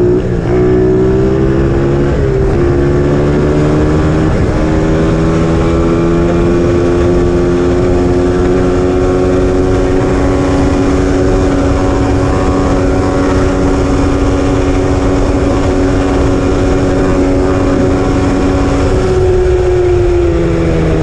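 80cc pit bike's single-cylinder engine running under way. It holds a steady pitch for most of the ride, with brief breaks and shifts in pitch in the first five seconds, and the pitch falls as it eases off near the end.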